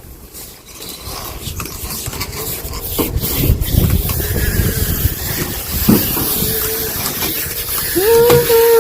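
Electric hose reel winding in a truck-mount carpet cleaner's vacuum hose, the hose dragging and rubbing as it is pulled in, with scattered knocks. A steady whine joins in for the last couple of seconds.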